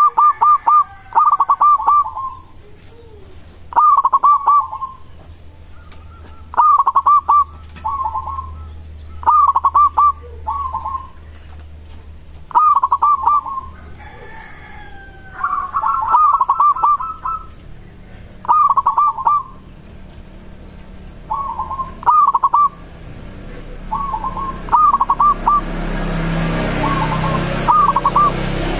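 Local-type zebra dove (perkutut) cooing over and over: phrases of several quick notes, one every two to three seconds. A rushing noise rises in the last few seconds.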